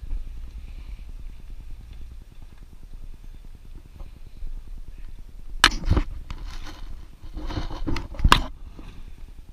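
Jeep backing down a rocky waterfall ledge: a low engine rumble, then a few sharp knocks and scraping clatters about six and eight seconds in as it drops over the rock.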